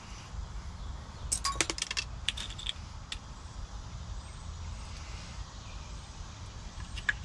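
Small metallic clicks and ticks from lock pins and tools being handled while rekeying a Weiser lock cylinder: a quick run of clicks about a second and a half in, a shorter cluster just after, and a single click near the end, over a low steady rumble.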